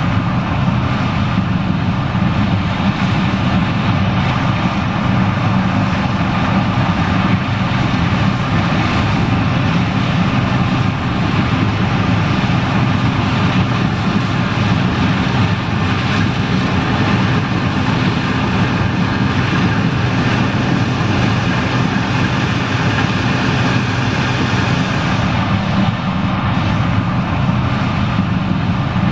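John Deere 9870STS combine running steadily while harvesting corn: the diesel engine's even drone with the rush of its threshing and separating machinery.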